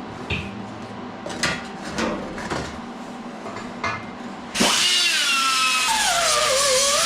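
A few light knocks and clicks from handling the metal part. Then, about four and a half seconds in, a power grinder starts and runs loudly, its whine dropping in pitch and wavering as it is pressed against the steel.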